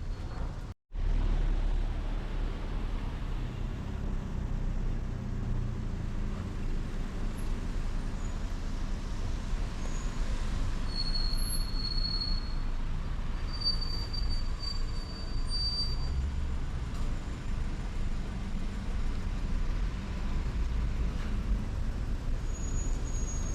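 City street ambience: a steady low rumble of passing traffic, with two brief high squealing tones around the middle. The sound cuts out for a moment about a second in.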